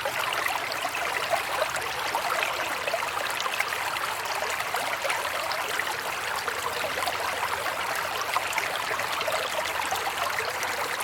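Flowing stream water running steadily, with a constant rushing sound.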